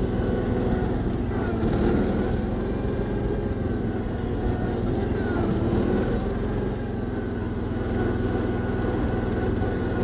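1976 Massey Ferguson 1650 garden tractor's 16-horsepower engine running steadily.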